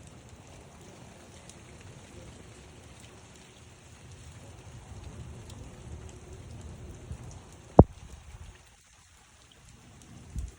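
Steady outdoor weather noise with a low rumble. About three-quarters of the way in, a single sharp click is followed by about a second of near quiet, and a small thump comes near the end.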